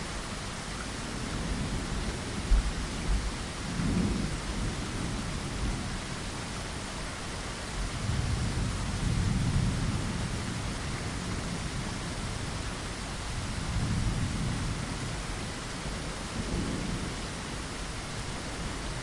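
Steady rain pattering on a window, with low rumbles of thunder swelling and fading several times.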